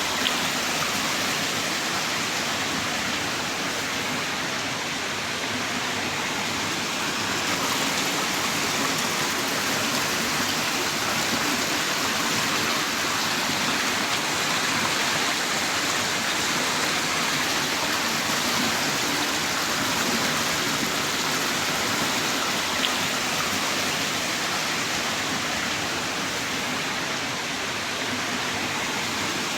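Heavy rain downpour: a steady, dense hiss of rain, with a single louder drop tick near the start and another about three-quarters of the way through.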